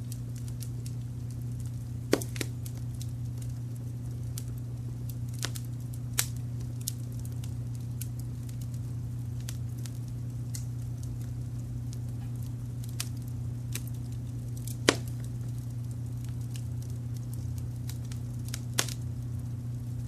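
Wood fire crackling, with a few sparse sharp pops, the loudest about three-quarters of the way through. Under it runs a steady, smooth low noise bed of brown noise.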